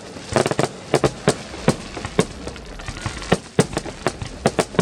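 Fireworks display: an irregular volley of sharp bangs from bursting shells, about three a second.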